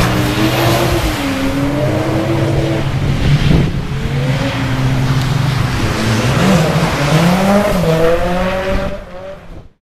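Drift car engine revving, its pitch rising and falling as the throttle is worked, over a steady rush of tyre noise. The sound fades and cuts off near the end.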